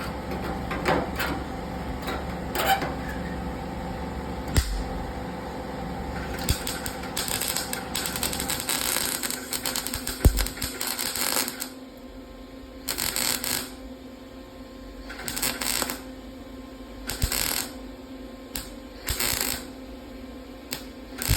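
Century 110-volt wire-feed welder crackling as it welds up holes in car body sheet metal against an aluminum backing: a longer weld around the middle, then four short bursts of about a second each.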